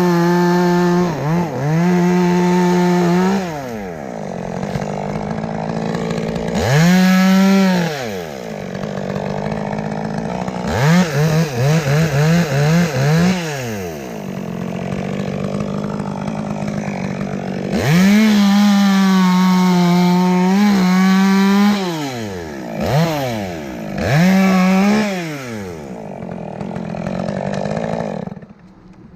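Chainsaw revved to full speed again and again with drops back to idle between, including a run of quick throttle blips about halfway through; the engine stops shortly before the end.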